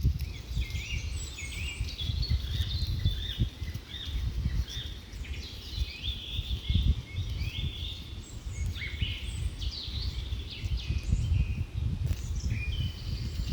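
Many small birds chirping and singing at once, short quick calls overlapping throughout, over a low uneven rumble.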